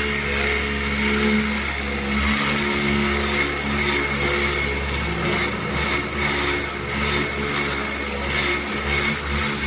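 Electric power tool running steadily while working the car's body metal, its scraping rising and falling evenly as it passes over the surface.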